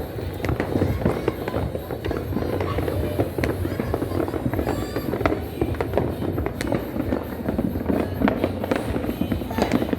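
A dense, unbroken barrage of firecrackers and fireworks going off on all sides, a constant crackle of overlapping bangs with sharper single reports standing out.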